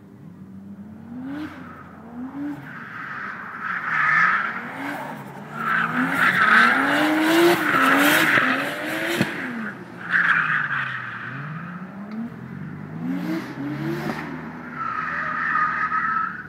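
Toyota Chaser JZX100 drifting: the engine revs up and down again and again while the tyres squeal in long bursts, loudest in the middle.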